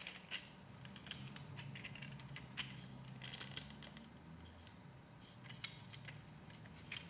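Plastic Lego Technic pieces clicking and tapping as they are handled and pressed together: scattered sharp clicks, irregular and a few seconds apart at the loudest, over a faint low hum.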